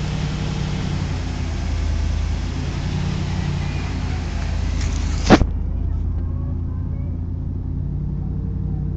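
A motor vehicle's engine idling steadily with a low hum, with one sharp knock about five seconds in.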